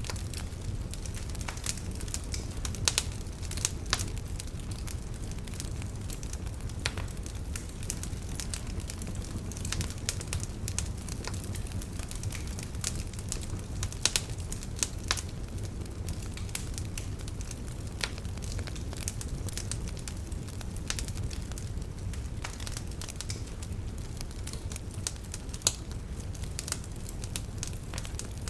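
Log fire crackling: irregular sharp pops and snaps over a steady low rumble of burning wood, with a few louder pops scattered through.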